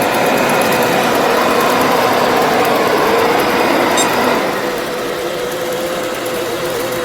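ILIFE A4 robot vacuum running, its motor giving a steady whirring hum. About four and a half seconds in the noise grows quieter, leaving the steady hum.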